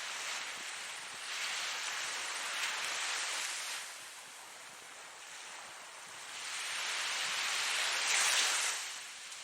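Ocean waves breaking and washing in as a rushing hiss that swells twice, once from just over a second in and again from about six seconds, the second wave the louder and cresting near the end.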